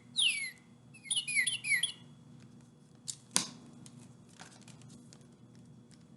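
Recorded northern cardinal song played back from a bird-call book: a clear whistle sliding down in pitch, then a quick run of short falling notes, ending about two seconds in. Two sharp clicks follow about three seconds in.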